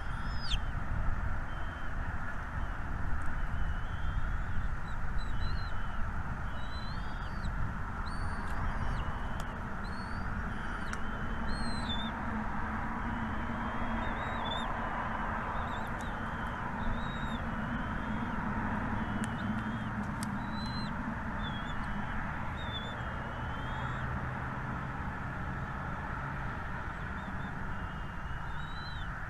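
Small birds chirping: a long run of short, high, wavering calls, over steady background noise and a low rumble.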